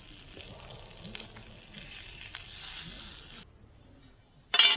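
Steady sizzling and crackling over a campfire, with scattered small pops, until it drops away about three and a half seconds in. Near the end comes a short, loud hiss that cuts off suddenly.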